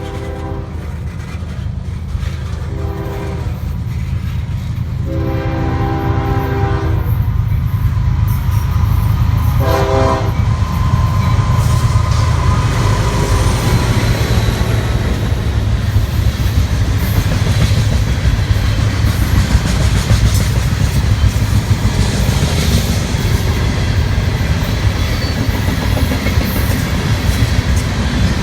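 Diesel freight train locomotive horn sounding several blasts, short ones and one longer one, over the low rumble of the engines. The train then passes with a loud, steady rumble of wheels on the rails that builds over the first dozen seconds.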